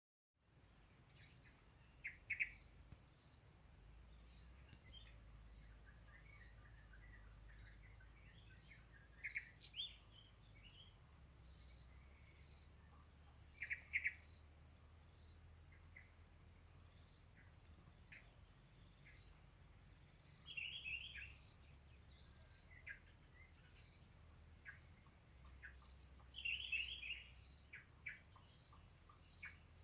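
Small songbirds calling: quick falling runs of thin high notes come back every few seconds, with sharper chirps between them. A steady high insect whine runs underneath.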